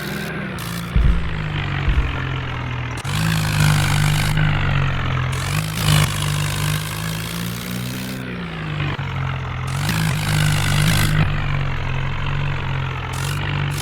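Tractor engine running hard, its pitch rising and falling as it is revved, with two low thumps about one and two seconds in.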